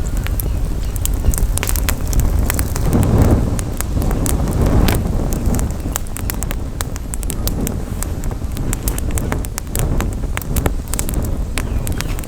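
Campfire crackling, with frequent sharp pops and snaps of burning wood, over a low rumble of wind on the microphone that swells a few seconds in.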